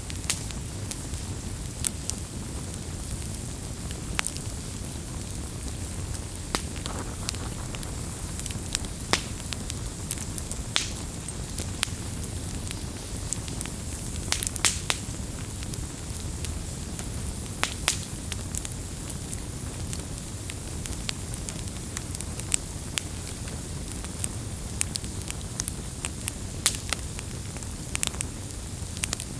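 Wood campfire burning, a steady low rumble of flames under irregular sharp crackles and pops from the burning wood.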